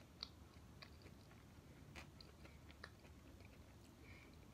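Faint chewing of a mouthful of fried chicken sandwich with the mouth closed, with a few soft mouth clicks.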